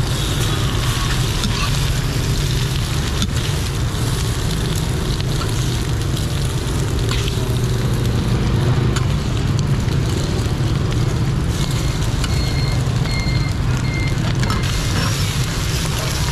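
Cubes of rice-flour cake and egg sizzling in fat on a wide flat pan, with a few clicks and scrapes of a metal spatula against the pan, over a steady low rumble. A few short high beeps sound about twelve seconds in.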